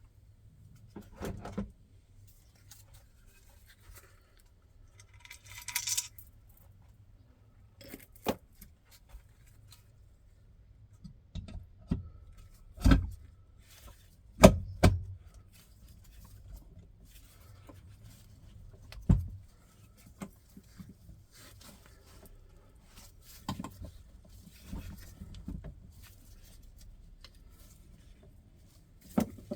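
Scattered clinks and knocks of hand tools and metal engine parts being handled, with a short jingling rattle about six seconds in and the loudest knocks in the middle.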